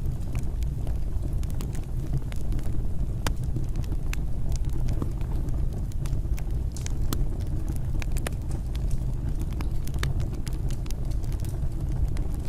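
Fireplace fire burning: a steady low rumble of flames with frequent sharp, irregular crackles and pops.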